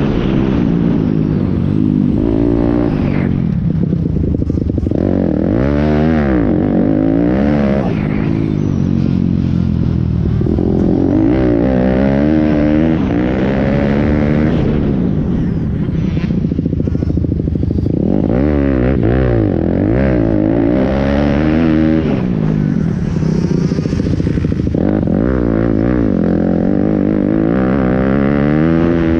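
Pit bike engines running hard, their pitch rising and falling over and over as they rev and ease off, with more than one engine heard at once at times.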